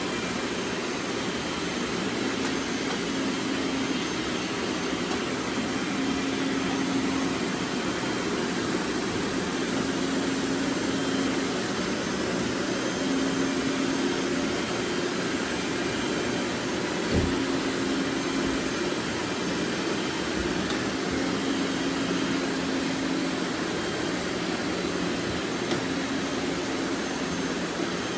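Many robot vacuums running at once: a steady whirring hiss of suction fans and brushes, with a droning tone that fades in and out. One sharp knock a little past the middle.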